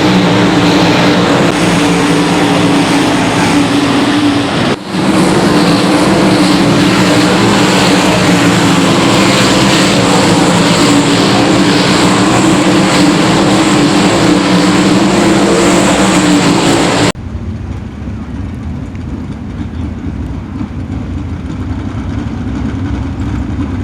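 Sprint car V8 engines running loud and steady at racing speed, with a brief break about five seconds in. About 17 seconds in the sound cuts off abruptly to a quieter, lower engine rumble.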